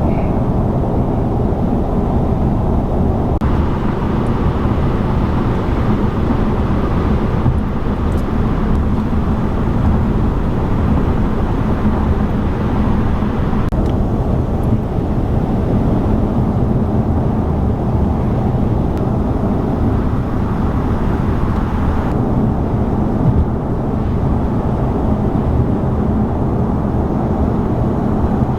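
A car driving at a steady speed, its engine and road noise running evenly with no breaks.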